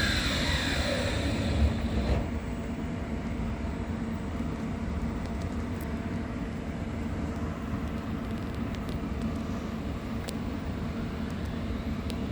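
Electric tram's whine falling in pitch as it slows, dying away about two seconds in, then a steady low rumble.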